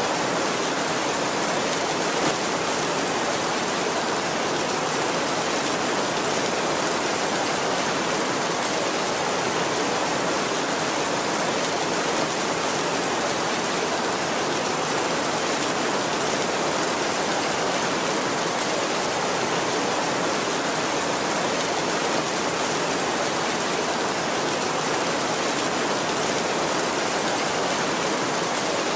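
Heavy rain falling on a tin roof, a steady dense hiss with no let-up.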